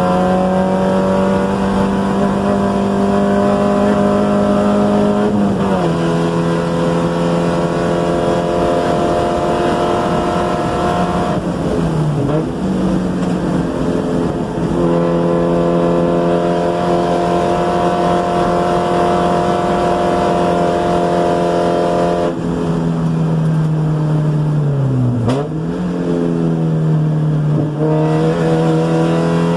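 1990 Spec Miata's 1.6-litre four-cylinder engine heard from inside the car, driven hard on a race track at high revs. Its pitch holds or slowly climbs, with several short drops and recoveries where the driver shifts or lifts for braking.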